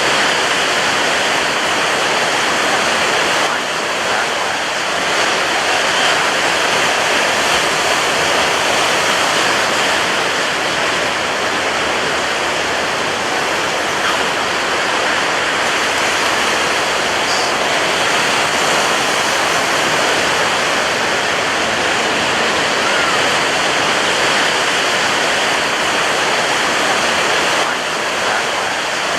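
Ocean surf breaking on a beach: a continuous dense rush of white water with hardly any let-up, easing slightly about four seconds in and again near the end.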